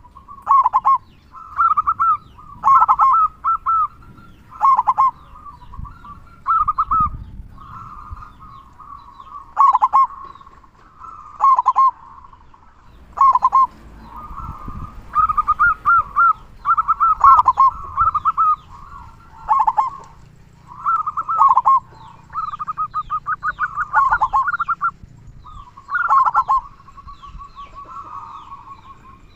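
Local zebra dove (perkutut) cooing in full song, with a big, deep 'kung' voice. Short phrases of quick, rolling coos repeat every one to two seconds, some running together into longer strings. The bird is singing readily, which is why this recording is used to prompt other perkutut to call.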